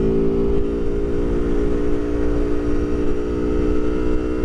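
Aprilia Tuono Factory 1100's V4 engine running steadily at low speed, heard from inside the rider's helmet along with wind rumble. Its pitch sags slightly, then rises a little near the end.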